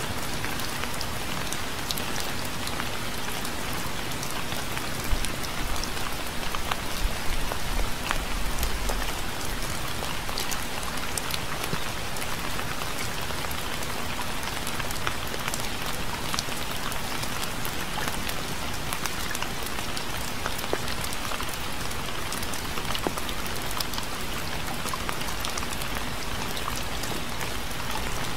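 Steady rain with individual drops ticking sharply through the hiss. A brief low rumble swells and fades about five to nine seconds in.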